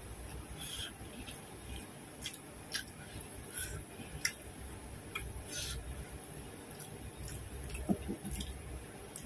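Close-up eating sounds: chewing and wet mouth smacks, with about a dozen short, sharp clicks scattered irregularly.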